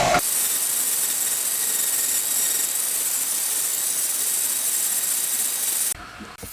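A motor cuts off just after the start, leaving a steady high hiss that stops abruptly about six seconds in.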